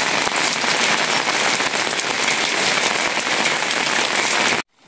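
Steady rain falling and pattering, cutting off abruptly near the end.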